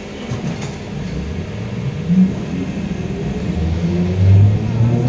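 LiAZ-5280 trolleybus, with its DK-213 traction motor, pulling away and accelerating. A few light clicks come near the start, then the motor's whine rises steadily in pitch as the running noise grows louder.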